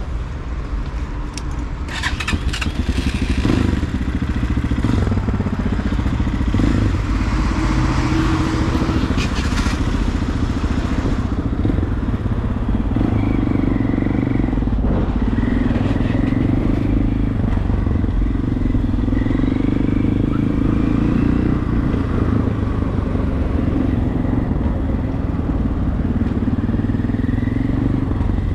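Regulmoto TE enduro motorcycle engine running under way, its pitch rising and falling again and again as it is ridden through traffic.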